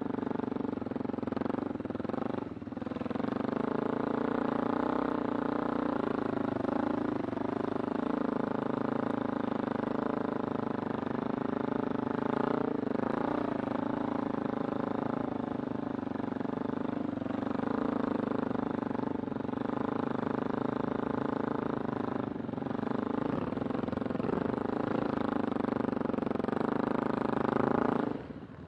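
Kawasaki Super Sherpa's single-cylinder four-stroke engine running steadily under way. The engine note briefly dips and changes pitch every several seconds as the throttle is eased or a gear is changed, with a sharp drop just before the end.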